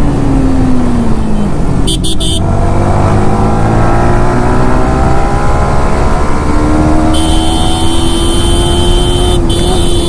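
Yamaha R15 V4 motorcycle's single-cylinder engine heard from the rider's seat over a loud rumble of wind and road. Its note falls as the bike slows, then, after a brief break about two seconds in, rises under acceleration. It settles into a steady, slowly climbing note near the end, with a thin high whine joining about seven seconds in.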